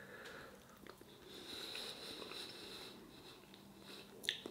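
Faint chewing of a mouthful of beef curry, with breathing through the nose and a few small clicks, then a short sniff a little after four seconds in.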